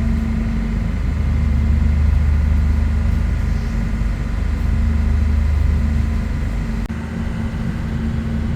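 Diesel train locomotive running with a steady low engine drone and a few steady higher tones over it; the lowest part of the drone changes about seven seconds in.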